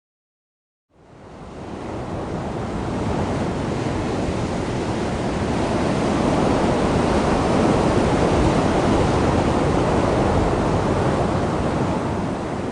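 Steady rush of wind on the microphone and sea water aboard a moving yacht, fading in about a second in after silence.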